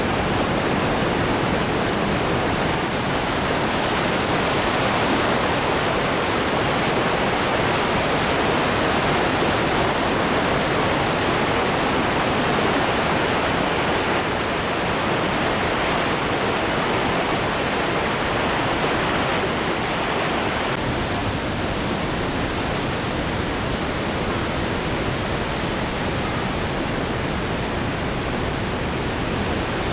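Goðafoss waterfall's steady rush of falling water, its top end dropping a little about two-thirds of the way through.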